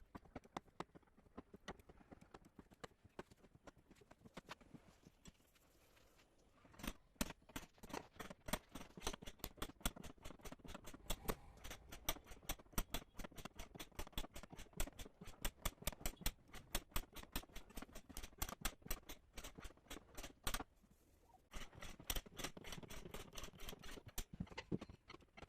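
Rapid light tapping, several taps a second, faint at first, growing stronger about six seconds in and breaking off briefly about twenty-one seconds in.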